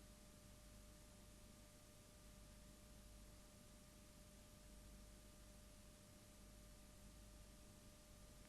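Near silence: a faint steady hiss with a faint constant tone running under it, the noise floor of the recording.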